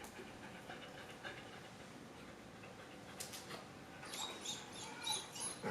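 German Shepherd puppy playing over a ball: faint scuffling and movement, then a few short high-pitched squeaks in the last second and a half.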